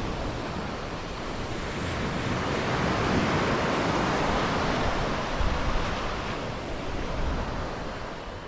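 Sea waves washing onto the shore, with wind buffeting the microphone as a low rumble. The surf swells a few seconds in and fades out near the end.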